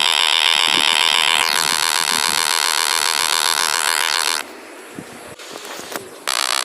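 Biplane's propeller engine buzzing steadily with a fast, even pulse. About two-thirds of the way in it drops away to a quiet hiss for nearly two seconds, then the buzz returns.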